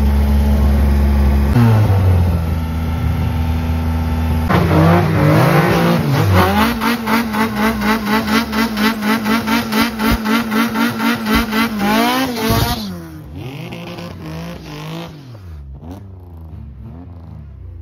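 A drag car's engine is held at high revs on the start line, then revs higher and pulses about three times a second at a steady pitch for several seconds. About 13 seconds in, the car launches and the engine note falls away, rising and falling in pitch as it goes down the strip.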